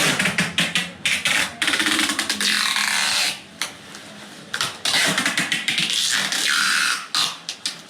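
Wind buffeting the microphone in irregular surges, broken by short gaps.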